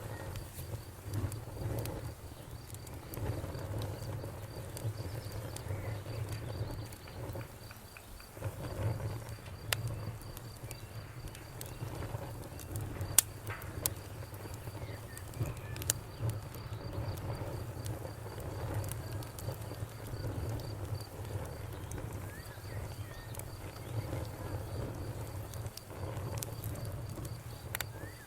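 Wood fire burning in a fireplace: a low steady rumble of flames with scattered sharp crackles and pops, one louder pop about 13 seconds in. A faint, rapid high chirping runs along underneath.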